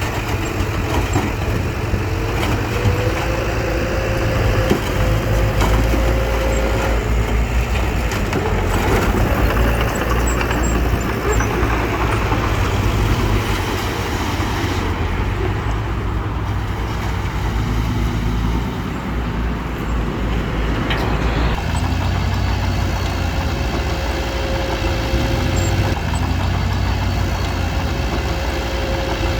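The diesel engine of heavy construction machinery runs steadily, with a faint high whine over the engine note. The sound shifts about two-thirds of the way through.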